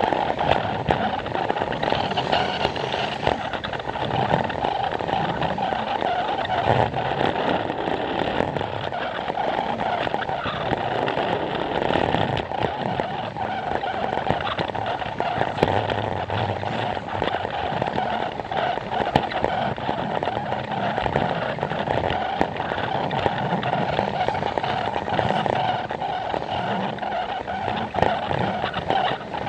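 Plarail toy train's small motor and gears whirring steadily, with the wheels clicking over the plastic track joints.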